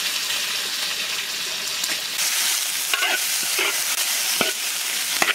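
Chopped duck pieces sizzling in a large wok, being dry-fried before braising, as a metal spatula stirs them, with a few short scrapes of the spatula against the wok in the second half.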